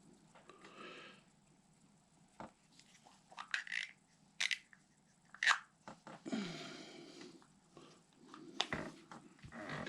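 Scattered light clicks and taps of small screws and plastic parts being picked up and handled on a workbench, with some soft rustling between them.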